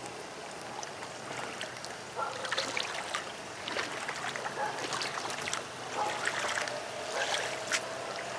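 Floodwater sloshing and trickling, with irregular small splashes starting about two seconds in.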